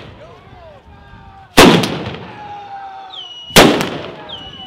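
Two loud firework blasts about two seconds apart from a ground-fired firework battery going off at close range, each bang dying away over about a second.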